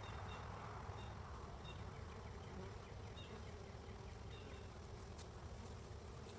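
Honeybees buzzing around a hive entrance: a faint, steady hum. Faint short high chirps repeat about once a second through the first few seconds.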